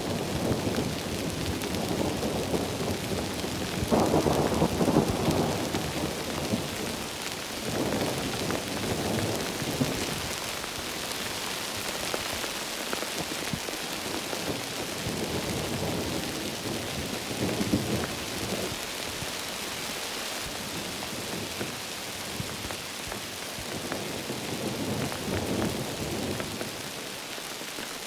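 Heavy rain falling steadily, with repeated low rumbles that rise and fade, the loudest about four to six seconds in.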